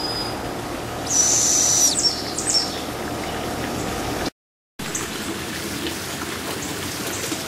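Barred owl fledgling giving its raspy, high-pitched begging hiss: one long call about a second in, then two short ones.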